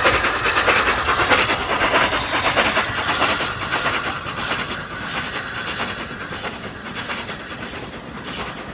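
Heritage railway train running past, its wheels clattering over the rail joints, the sound fading steadily as it moves away.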